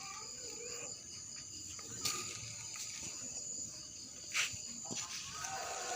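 Insects chirring steadily in a high pitch, with a couple of faint brief clicks.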